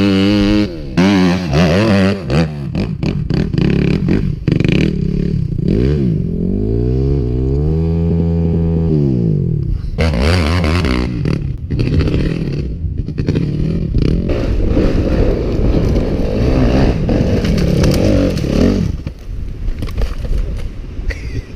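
Dirt bike engine revving hard, its pitch climbing and dropping again and again as the throttle is worked. In the last couple of seconds the engine note fades out and a rough, scraping noise is left.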